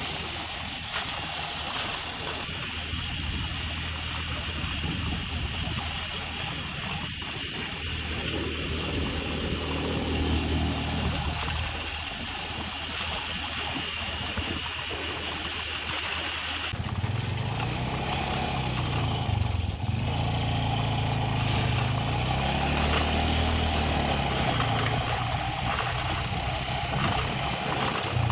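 An engine running, its pitch rising and falling several times. It becomes louder and higher about two-thirds of the way through.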